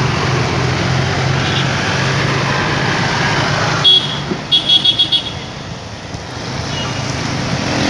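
Steady engine and road noise of a motorcycle ride in the rain. About halfway through, a vehicle horn gives one short toot, then a quick run of about six short beeps.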